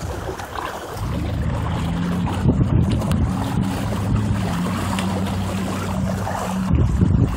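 Minibike's small two-stroke weedeater-type engine running at a steady note from about a second in until near the end, with wind buffeting the microphone.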